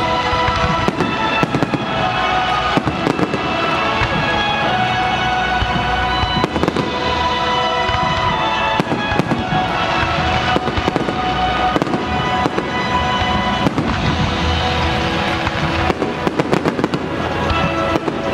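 Fireworks bursting in quick, irregular succession, many sharp bangs and crackles, over music playing throughout.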